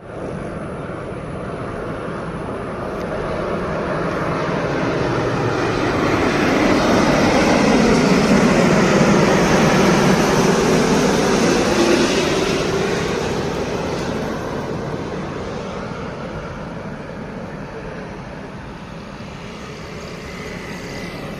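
Jet airliner's engines passing overhead on landing approach. The noise swells to its loudest about eight to twelve seconds in and then fades away, with a sweeping, phasing whoosh as the plane goes over.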